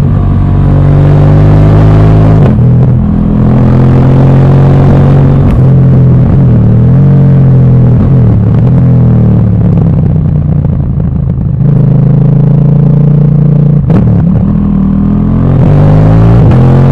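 Motorcycle engine pulling through the gears, its note climbing and then dropping at each shift about two and a half and five and a half seconds in, easing off to a steadier note in the middle and climbing again near the end, with wind rushing past.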